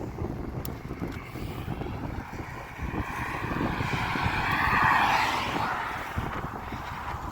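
Strong wind buffeting the microphone while riding, with a motor vehicle passing: its tyre and engine noise swells to a peak about five seconds in, then fades.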